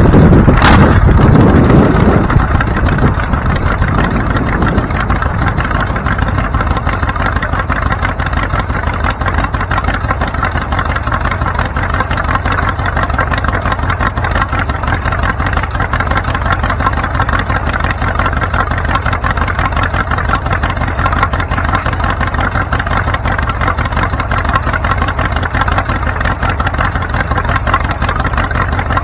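Vehicle engine running close by, loud at first and easing over about two seconds into a steady idle, with a sharp click just under a second in.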